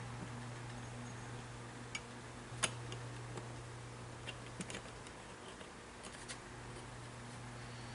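Scattered light clicks and taps of small motor parts being handled during reassembly, the sharpest about a third of the way in, over a steady low hum.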